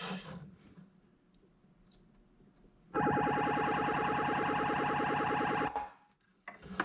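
Stern Trident pinball machine's SB-100 sound board putting out a harsh, distorted buzzing tone through its speaker, starting suddenly about three seconds in and lasting close to three seconds. A horrific sound, the sign that the sound board or its wiring is not right.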